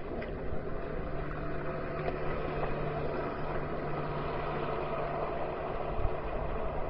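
Waterjet work boat's engine running with a steady drone, and a single low bump about six seconds in.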